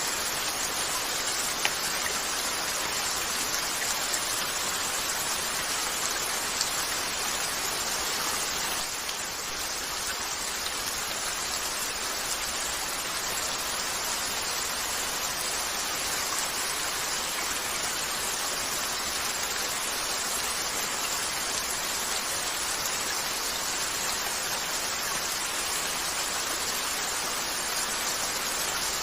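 Steady rain falling on a window, an even hiss, with a few isolated sharp ticks in the first several seconds.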